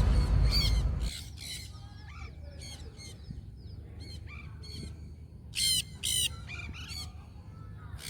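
Conures screeching and squawking, many short harsh calls, with two loud screeches a little over halfway through. A low rumble stops about a second in.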